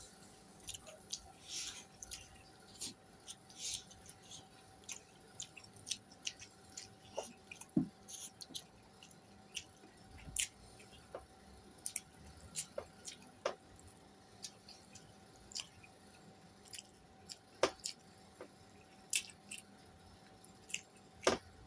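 A person chewing food close to the microphone, with irregular short wet smacks and clicks of the mouth throughout.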